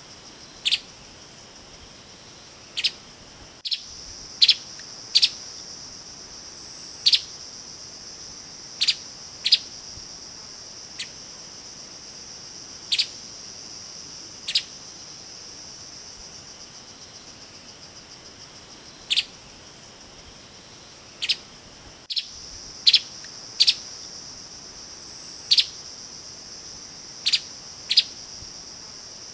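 Streaked spiderhunter giving short, sharp single call notes, repeated irregularly every second or two and sometimes in quick pairs, over a steady high-pitched drone of insects.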